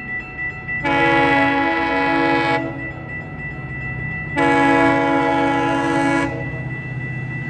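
GO Transit diesel locomotive sounding its multi-chime air horn for a crossing: two long blasts about two seconds each, over the steady throb of the locomotive's engine.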